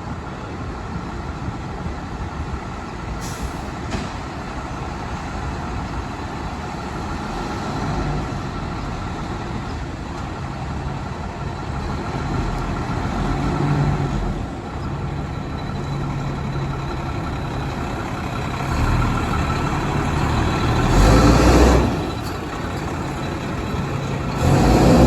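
Fire truck's diesel engine running and pulling away. Loud air-brake hisses come about three-quarters of the way through and again near the end.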